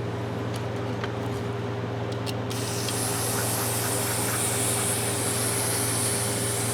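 Aerosol can of carburetor cleaner spraying in one long continuous hiss onto a rusted adjustable wrench, starting about two and a half seconds in. Before it come a few light clicks of the tool being handled, and a steady low hum runs underneath.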